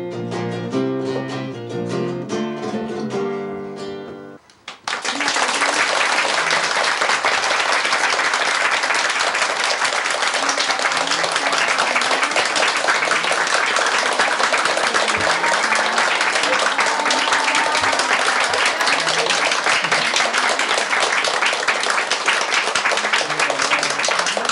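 A plucked acoustic guitar piece fading to its end about four seconds in, followed by sustained applause from a small audience of about forty.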